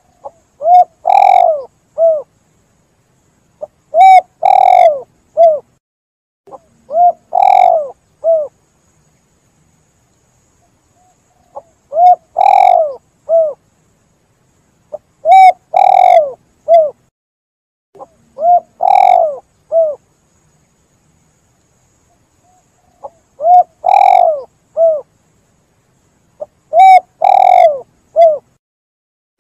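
Spotted dove (tekukur) cooing: a three-note coo phrase, a short note, a longer note and a short note, repeated about every three seconds. The phrases come in runs of three, with a longer pause between runs.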